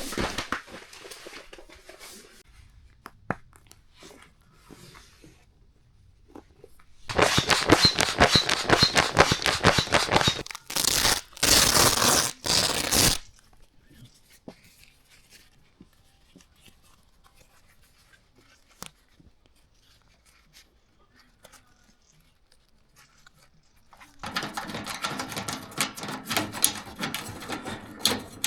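Loud bursts of rustling and tearing, as of gear or material being handled: a long burst about a quarter of the way in, two shorter ones just after it, then a quiet spell, and more rustling starting near the end.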